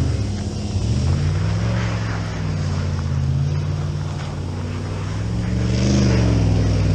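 Pickup truck engine revving up and down as the truck spins donuts in the snow. The revs climb about a second in, ease off, and climb again near the end.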